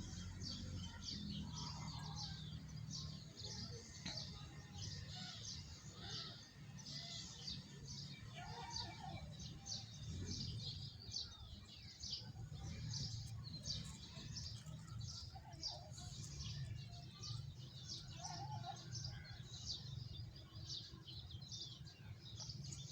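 Many small birds chirping together in a continuous, dense chorus of short, rapid high notes, with a few lower calls now and then, over a steady low rumble.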